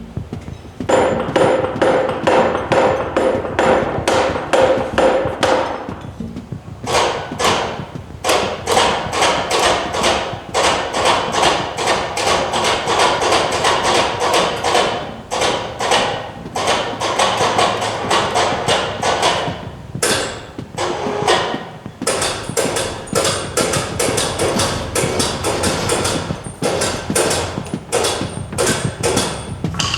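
Repeated hammer blows on wood, several a second in quick runs with short pauses, as the joints of an old wooden danjiri festival cart are knocked apart during disassembly.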